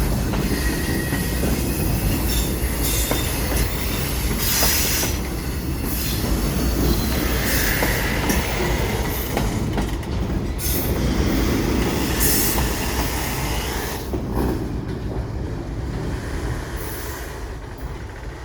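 A train passing close by: steady wheel-on-rail noise with scattered knocks and a brief wheel squeal, fading away over the last few seconds as it moves off.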